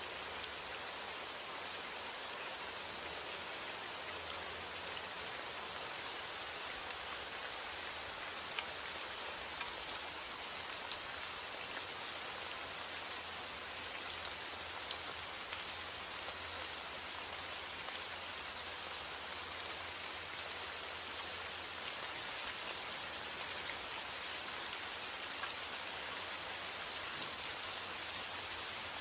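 Steady heavy rain, a continuous hiss of rainfall with many small drop ticks on a surface.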